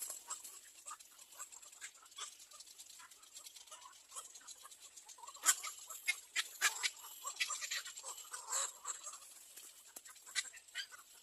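Short, irregular bird calls mixed with scratchy rustling, busiest and loudest in the middle.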